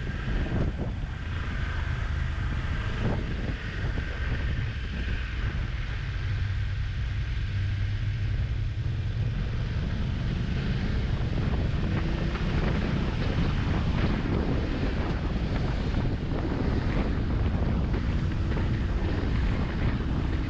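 Steady wind noise on the microphone of a riding motorcycle, with a low rumble underneath.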